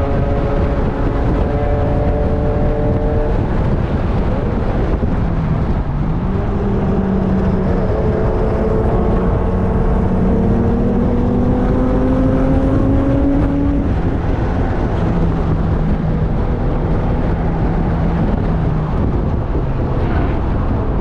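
Car engine being driven hard at track speed, its pitch climbing under acceleration and then dropping about two-thirds of the way through as the driver shifts or lifts. Road and wind noise run underneath.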